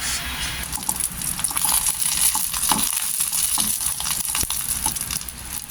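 Taco shell heating in a hot pot: a steady sizzle with scattered crackles and pops.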